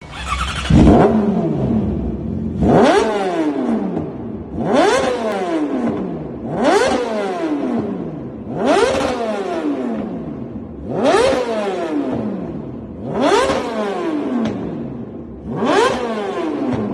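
Yamaha R6 inline-four engine free-revving through a loud aftermarket exhaust: about eight quick throttle blips, roughly one every two seconds, each rising sharply and then falling back.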